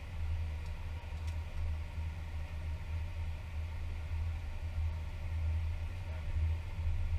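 Airbus A320 cockpit noise after landing, with the engines back at idle: a steady low rumble with a faint hum over it.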